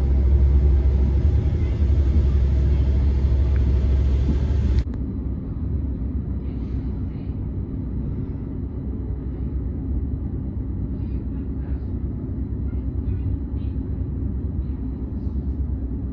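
Rumble of a Greater Anglia class 755 train heard from inside the carriage as it runs along the track. About five seconds in the noise drops abruptly to a quieter, steady rumble as the train slows into a station.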